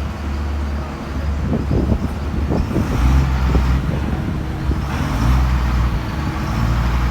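SDLG G9138F motor grader's diesel engine running under load as the machine reverses up onto a truck, its level swelling about three seconds in and again about five seconds in.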